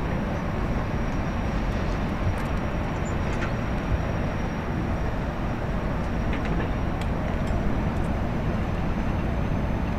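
Steady low engine-like rumble with a faint, thin high whine running through it and a few small clicks.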